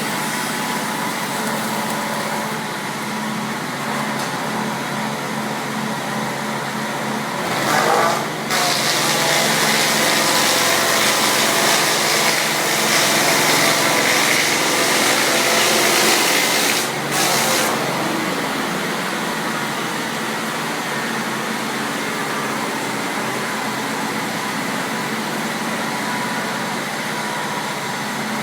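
Electric-drive Taiga OS-1 log-rounding machine running with a steady motor hum. From about eight to eighteen seconds in it gets louder and hissier as it cuts the log.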